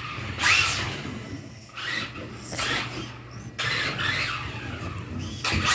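Electric RC drag car's sensored brushless motor whining up in several short throttle bursts, its tires spinning and squealing on the floor.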